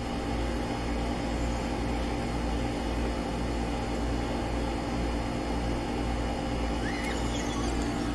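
A steady mechanical hum with a low drone and several constant tones, even in level throughout; a faint short squeak about seven seconds in.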